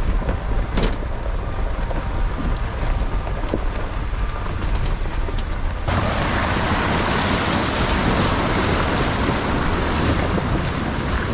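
Pickup truck driving slowly on a rough, rocky mountain dirt road: a steady low rumble of engine and tyres with scattered small knocks and rattles. About six seconds in, a loud steady hiss of wind or gravel noise suddenly joins it.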